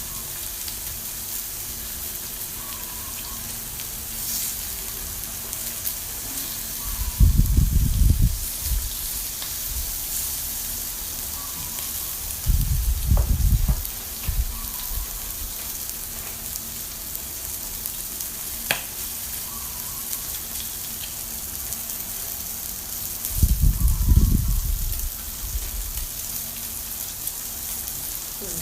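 Sliced pork belly sizzling on a hot grill, a steady hiss, broken three times by a brief low rumble and once by a sharp click.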